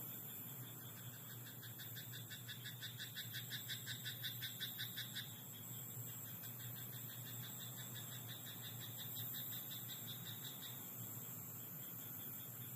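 A frog calling in a rice paddy: a rapid run of croaks, about eight a second, from about a second and a half in that stops suddenly around five seconds in, over a steady high-pitched background hiss.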